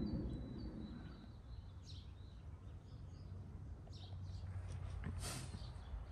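Birds chirping now and then: a few short, high calls about two, four and five seconds in, over a faint low outdoor rumble.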